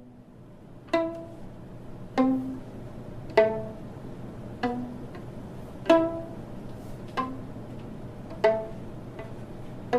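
Violin played pizzicato: single plucked notes about every second and a quarter, each dying away quickly, stepping between different pitches over a faint steady low hum.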